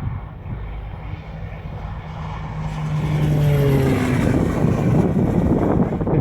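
Electric propeller aerobatic plane flying past: a steady propeller hum grows louder, drops in pitch as it passes, then turns into a rushing noise.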